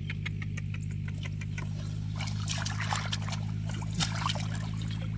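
Water splashing and trickling, busiest in the second half with a sharp splash about four seconds in, over a steady low hum.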